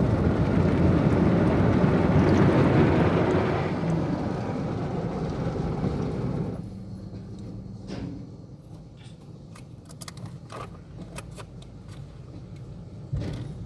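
Automatic car wash machinery running with a loud, steady rushing noise. The noise drops about four seconds in and cuts off suddenly about six and a half seconds in, leaving quieter scattered clicks and knocks.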